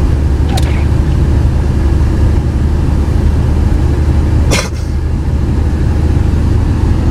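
Steady low rumble of a car's engine and road noise while driving, with a brief sharp noise about four and a half seconds in.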